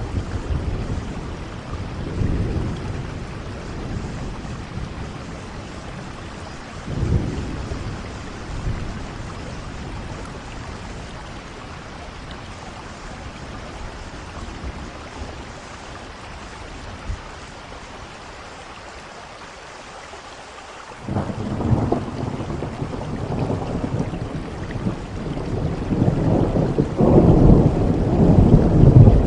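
Steady rain with thunder. Low rumbles come about two and seven seconds in, then a sudden crack a little past two-thirds of the way through that rolls into a long rumble, loudest near the end.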